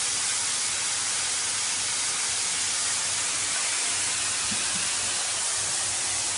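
La Marzocco espresso machine's steam wand hissing steadily at full flow, with a faint low hum underneath.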